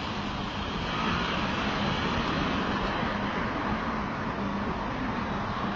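Steady street traffic noise, the hum of car engines and tyres, swelling slightly about a second in.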